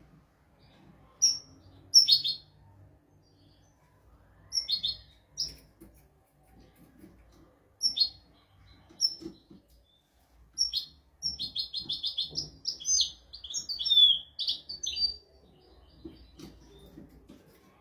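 European goldfinch singing: scattered high chirps, then a quick twittering run of notes about eleven seconds in that lasts some four seconds.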